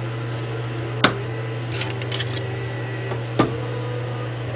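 Two sharp knocks from cutting and handling bars of cold process soap, about two and a half seconds apart, with a few faint ticks between them, over a steady low hum.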